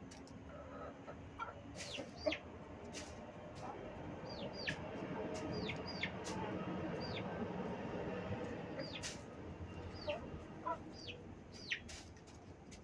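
Birds calling: many short, sharply falling peeps at irregular intervals over a low murmur that swells in the middle.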